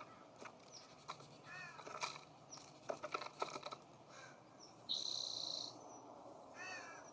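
Birds at a feeder: two short, harsh, arched calls, one early and one near the end, and a buzzy high call about five seconds in, with scattered light taps and knocks.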